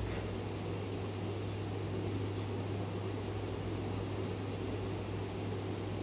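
Steady low hum with an even hiss behind it. No bird calls stand out.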